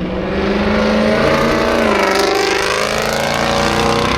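Ford Mustang Cobra's 5.0 V8 accelerating past, loud; its engine note dips about two seconds in, then climbs again.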